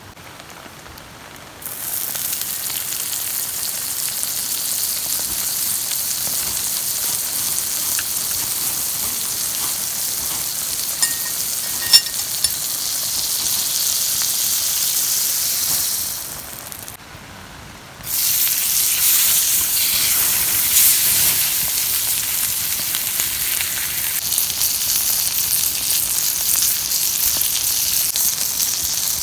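Food sizzling on a hot iron griddle plate. The sizzle starts suddenly about two seconds in, dies down around sixteen seconds, then starts again suddenly and loudly two seconds later, with one short click in the middle.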